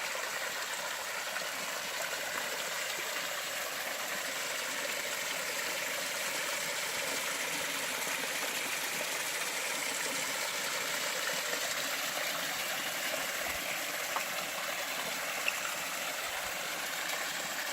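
Mountain stream flowing steadily, water rushing and splashing over rocks, with a few small clicks.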